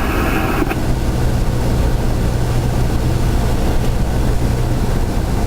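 Cessna 172's piston engine and propeller droning steadily at cruise power, a constant low hum with no change in pitch.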